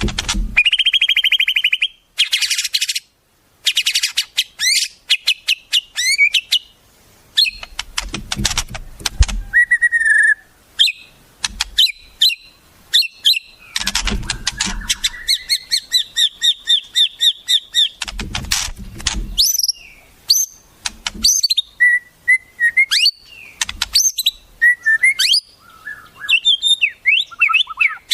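Wild songbirds singing in a dense, varied stream of sharp chirps, whistles and fast trills, as used for training a shama to copy them. A low rumble comes in three times under the song.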